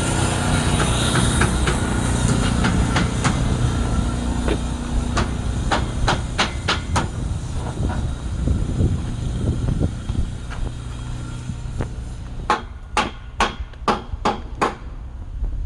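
A series of sharp taps and clicks over a steady low rumble. Near the end the taps come louder and more regularly, about three a second.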